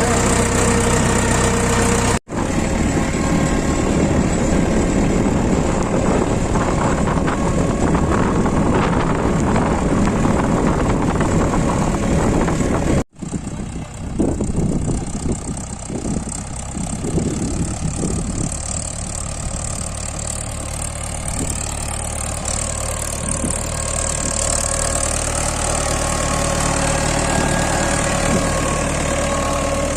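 Mahindra 575 DI tractor's four-cylinder diesel engine running steadily. The sound cuts out for an instant twice, about two and thirteen seconds in, and is a little quieter after the second break.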